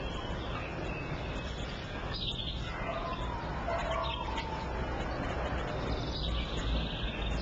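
Small pet birds chirping now and then, over a steady low background hiss.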